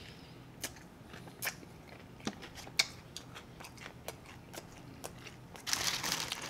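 Close-miked chewing and biting on a fried chicken wing, with sharp wet mouth clicks and crunches scattered through. Near the end comes a rustle of paper as a hand goes into the paper-lined basket of fries.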